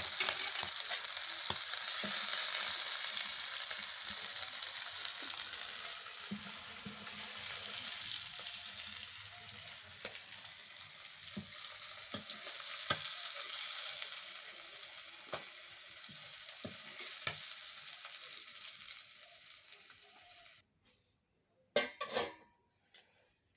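Chicken liver sizzling in hot oil in a kadai, with the spatula tapping and scraping as the pieces are stirred and lifted out. The sizzle slowly fades, then cuts off suddenly about twenty seconds in, followed by a couple of sharp utensil knocks.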